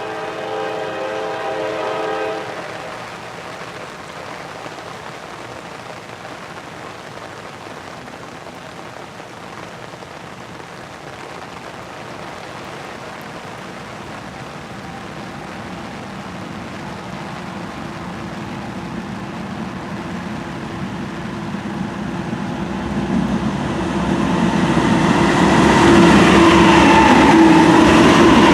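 Diesel locomotive air horn sounding a chord that cuts off about two seconds in, over a steady hiss of rain. Then Norfolk Southern diesel locomotives hauling a freight train approach, growing steadily louder until their engine rumble and wheel noise are loudest near the end.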